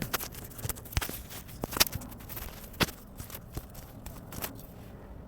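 A few scattered sharp clicks and knocks, irregularly spaced over a faint steady background.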